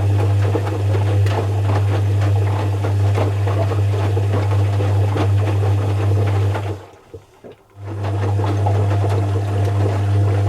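Zanussi FC1000 compact washing machine running mid-cycle: a steady low hum with busy rattling and sloshing over it, which cuts out for about a second partway through and then starts again.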